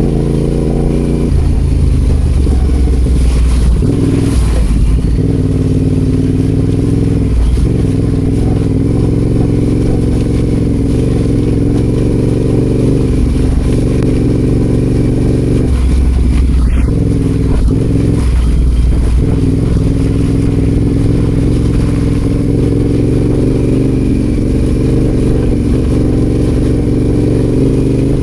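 Adventure motorcycle engine running while riding off road, its revs rising and falling with the throttle several times.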